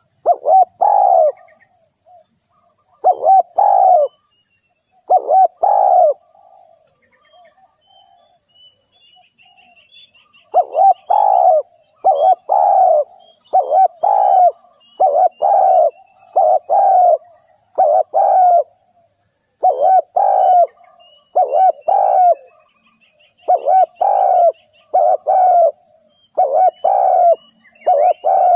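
Spotted dove cooing over and over in short phrases of two or three coos, the call used to lure wild doves to a decoy. It calls a few times, pauses for about four seconds, then repeats its phrases almost without a break. Faint chirps of small birds are heard behind it.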